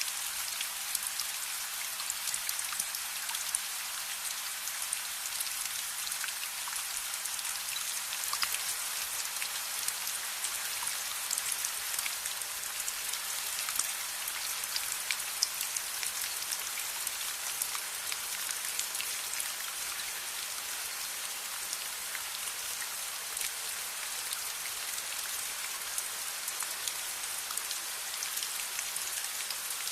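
Steady rain falling, a dense even hiss with many small sharp drop ticks scattered through it.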